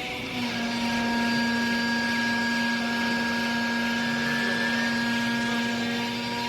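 Hydraulic clothes baler's motor and pump running with a steady hum and a hiss, the hum coming in just after the start.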